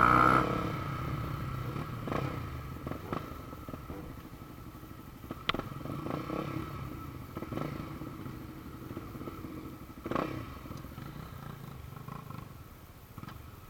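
Motorcycle engine running, loudest at first and then fading away, with a few short sharp clicks or knocks scattered through.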